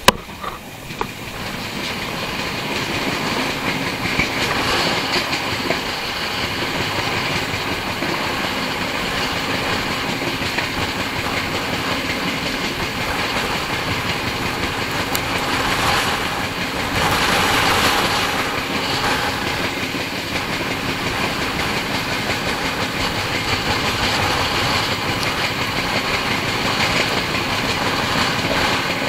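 Running noise of the Jharkhand Swarna Jayanti Express's passenger coaches moving at speed, heard from an open coach door: wheels on the rails mixed with rushing air. A sharp knock comes right at the start, the noise grows louder over the first few seconds, and it swells again a little past halfway.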